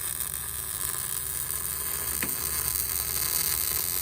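MIG welder arc sizzling steadily as a bead is laid on the truck's ground-out crack, from a Millermatic 200 wire-feed welder, over a low steady hum.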